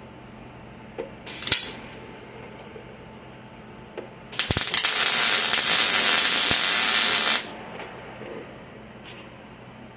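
Pressurised spray hissing: a short burst about a second in, then a steady hiss lasting about three seconds from the middle. A few light clicks and a knock come in between.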